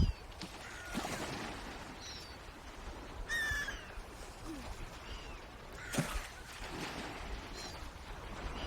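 Birds calling: short, slightly falling calls every second or two, with one louder, ringing call about three and a half seconds in. A low rumble fades away right at the start.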